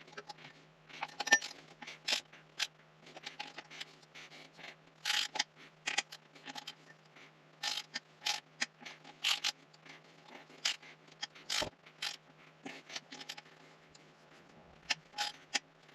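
Hand ratchet clicking in short runs with scattered knocks of the tool and socket, as Subaru EJ25 cylinder-head bolts are each turned a further 90 degrees in the angle-tightening step. A faint steady hum lies underneath.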